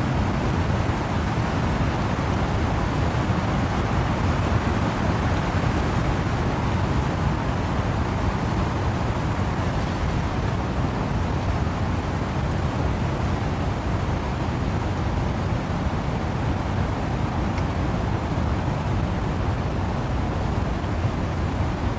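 Steady rush of wind-driven rain and wind through trees, an even noise heaviest in the low end, with no single drops, gusts or other events standing out.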